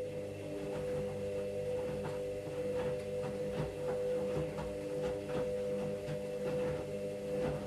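Washing machine running: a steady motor hum with a buzzing tone, over soft knocks about twice a second.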